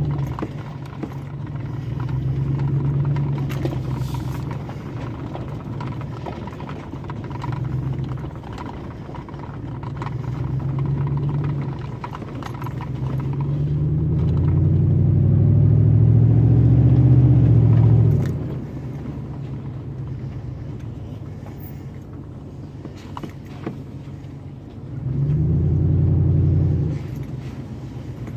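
Pickup truck running with its muffler removed, heard through an open passenger window while driving. The exhaust swells and falls several times under acceleration, with the longest pull rising in pitch for about five seconds past the middle before dropping off suddenly, and another brief surge near the end.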